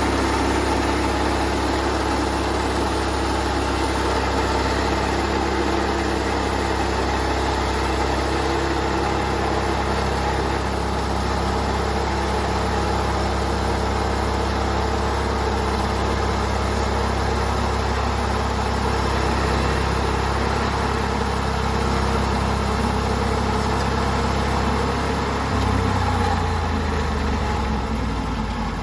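Portable band sawmill's engine running steadily, its pitch shifting about 26 seconds in.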